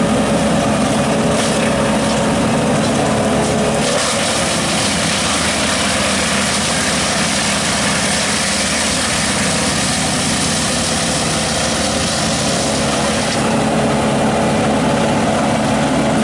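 Engine of tree-removal machinery running steadily, with a denser, rougher noise added from about four seconds in until near the end.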